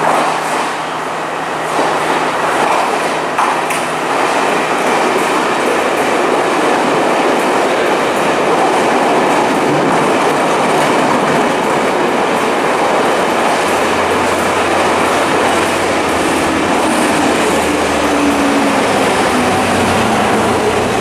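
Sri Lanka Railways Class S13 diesel multiple unit running through a station at speed: a loud, steady rumble of wheels on rails with a few sharp knocks in the first few seconds. A low drone joins in about two-thirds of the way through.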